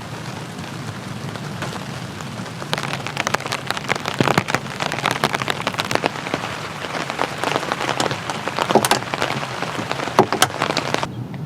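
Rain falling, with dense tapping of drops on a surface that begins about a quarter of the way in. The tapping stops abruptly shortly before the end.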